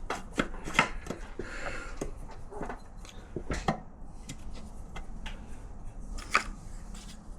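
Scattered metallic knocks and clinks of hand tools and parts being worked on a motorcycle engine during a strip-down, as a component is pried and tapped to free it, with louder knocks about a second in, around three and a half seconds in and about six seconds in.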